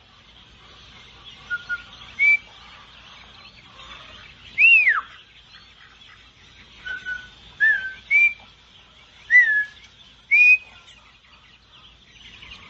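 Bird calling in about nine short, clear whistled notes a second or so apart, each a quick sliding note, one swooping down steeply about five seconds in.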